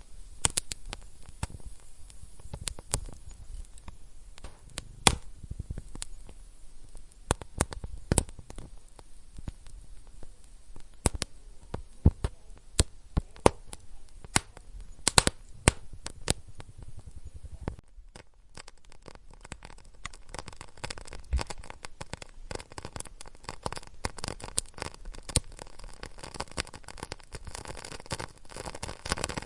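Wood fire crackling in a fireplace, with irregular sharp pops over a low rumble. About two-thirds of the way through, the sound turns to a denser, finer crackle with more hiss.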